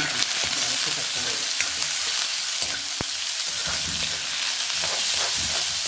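Sliced shallots sizzling in hot coconut oil in an iron wok, stirred with a metal spoon that scrapes through them, with one sharp click about three seconds in.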